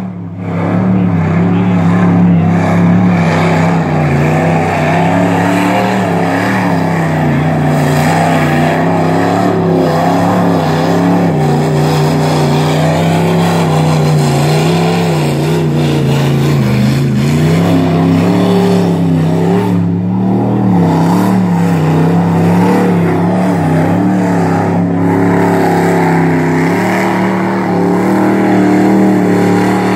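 Ford truck's engine running hard and revving up and down as it drives through mud in two-wheel drive.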